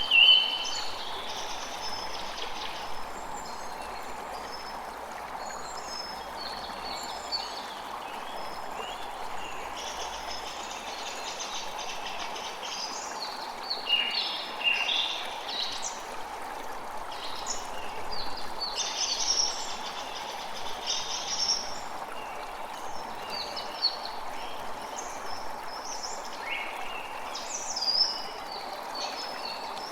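A creek flowing steadily with an even rushing hiss, while forest birds chirp and sing over it in short calls throughout, several at a time in places.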